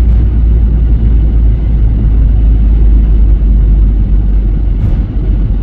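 Car driving on a snowy highway, heard from inside the cabin: a loud, steady low rumble of engine, road and wind noise.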